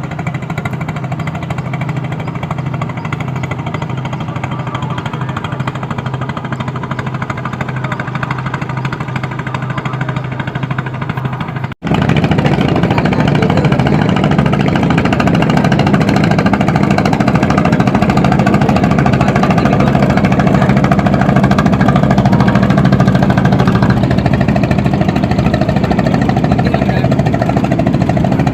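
Engine of a small traditional fishing boat running steadily with a rapid knocking pulse. It cuts out for an instant about twelve seconds in and comes back louder.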